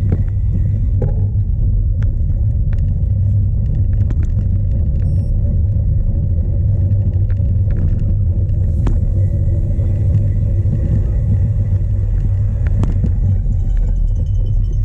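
Strong wind buffeting the bike-mounted camera's microphone during a cyclocross race, a steady low roar, with scattered sharp clicks and knocks from the bicycle over rough ground.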